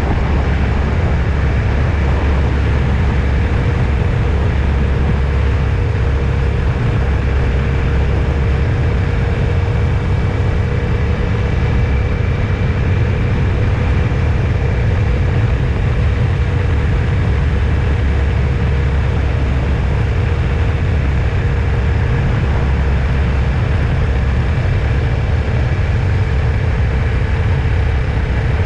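Steady engine and road noise from a vehicle on the move, heavy and low with faint steady whines above it and no change in speed.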